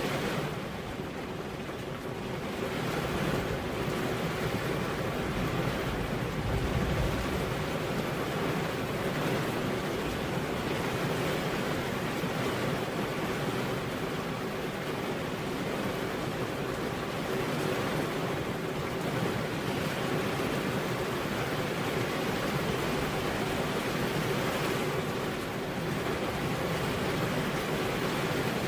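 Steady rain falling as an even, unbroken hiss, briefly a little softer near the start.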